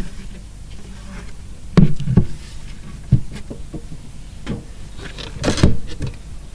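Wooden beehive parts handled and set in place, likely a feeder going onto the hive: a series of knocks and clunks, the loudest about two seconds in, with a brief scrape of wood on wood near the end.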